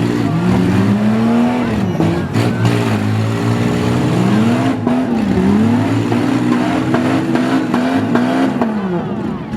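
Engines of several demolition derby minivans, SUVs and small trucks revving up and down as they maneuver, with a few sharp knocks of cars colliding, about two seconds in and again near the middle.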